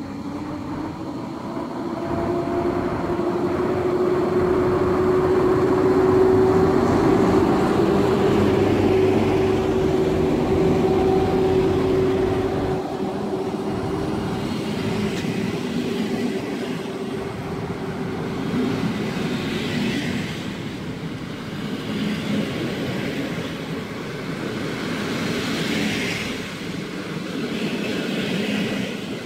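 PKP Intercity EP07 electric locomotive running past at close range with a steady hum, loudest about six seconds in. Its passenger coaches follow, rolling by with continuous wheel-on-rail noise.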